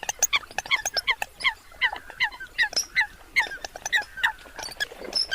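Eurasian coots calling: a rapid, overlapping run of short, sharp calls, about three a second, each dropping in pitch, with faint clicks between them.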